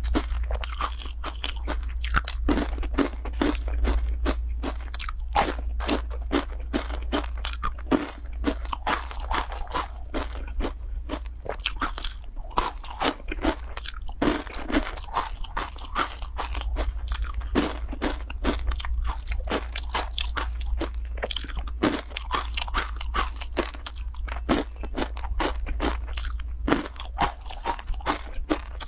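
Crunching and chewing of dry, uncooked instant-noodle snack pieces, a dense run of crisp crunches bite after bite, over a steady low hum.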